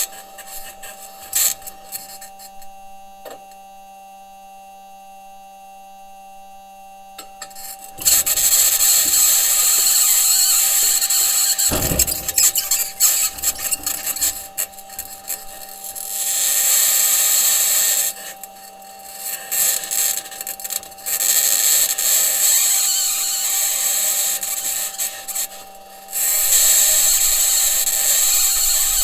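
Perseverance Mars rover driving: its metal wheels and suspension grinding, scraping and rattling over rocky ground, over a steady electrical hum. The first eight seconds are quieter, with a few clicks. Then a loud, high-pitched scraping and clanking sets in and eases off briefly a few times.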